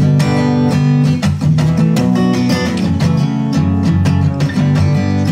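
Acoustic guitar strummed in a steady rhythm of chords, about four strokes a second, with no singing.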